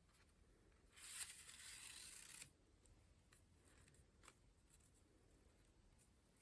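Paper rustling as a page of a collage book is turned, a sweep of about a second and a half, followed by a few faint light ticks of paper being handled.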